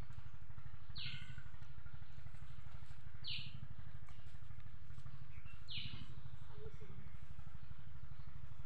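A bird gives a short, falling call three times, about every two to two and a half seconds, over a steady low rumble.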